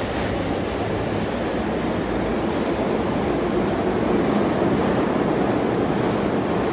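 Tokyu 5050 series train pulling out of an underground station: the last car passes, then a steady rumble carries on as the train runs off down the tunnel.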